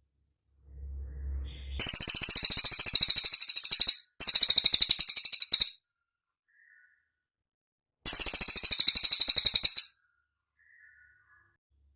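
Cililin singing: very high, very rapid trills in three loud bursts. The first two come close together, and the third follows after a pause of about two seconds.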